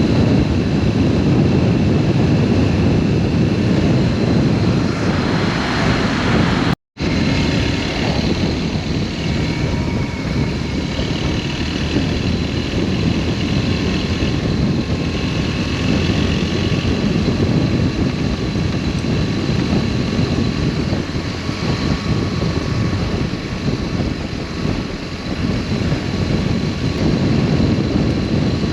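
Riding sound from a BMW R1200S boxer-twin motorcycle: steady engine drone under a heavy rush of wind noise. It cuts out completely for a moment about seven seconds in, then carries on.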